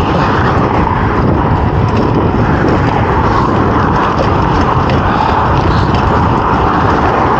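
Steady, loud wind and road noise from riding a fixed-gear bicycle, the wind buffeting the camera's microphone.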